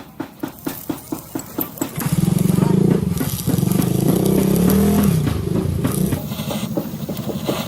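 An engine idling with an even beat of about four to five pulses a second, revved up about two seconds in and held for several seconds with its pitch wavering, then dropping back to the pulsing idle.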